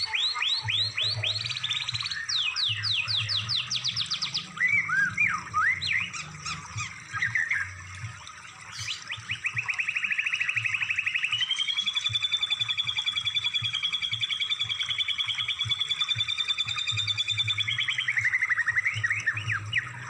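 Recorded songbird song used as tutor material for cage birds. It opens with a rapid series of sharp downward-sweeping notes and then varied whistled phrases. About ten seconds in, a fast trill starts that runs steadily for about six seconds before breaking back into whistled notes.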